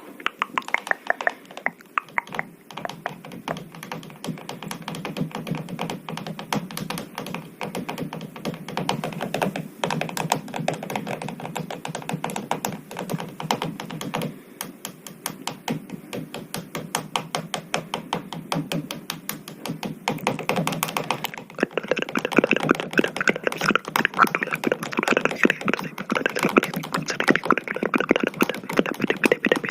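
Rapid, dense light tapping and clicking, many taps a second, growing louder and sharper about two thirds of the way through.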